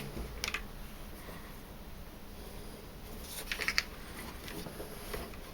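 A few light clicks and taps from parts of a tumble dryer's pump being handled and fitted into place: one pair about half a second in, then a quick cluster of clicks a little past the middle.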